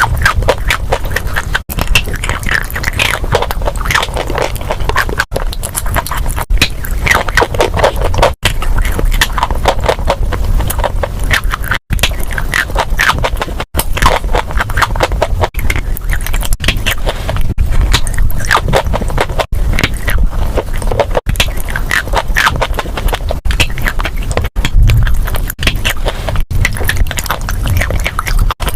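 Close-miked crunching and chewing of dry edible chalk with chalk paste: a dense, continuous run of crackling crunches, broken by a few split-second gaps.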